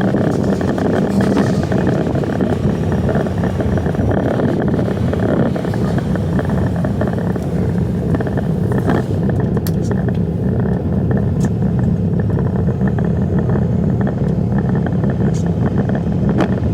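Semi truck's diesel engine running steadily, with a few sharp clicks in the second half.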